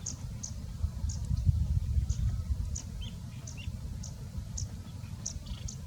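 A bird chirping: short high chirps repeated about twice a second, over a steady low rumble that swells briefly about one and a half seconds in.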